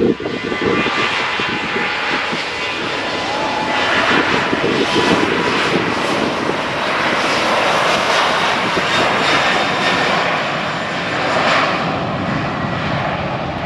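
Airplane engines running loud and steady, swelling and easing a little a few times as the aircraft passes.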